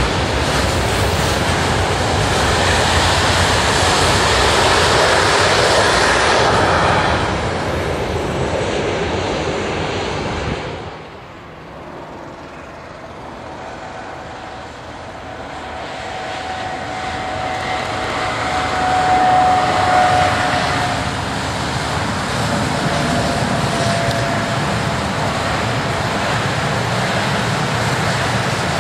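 Trains passing on the line: the steady rushing rumble of one train going by, cut off about eleven seconds in, then another train approaching. Its sound builds to a peak with a high steady whine through the middle and runs on past.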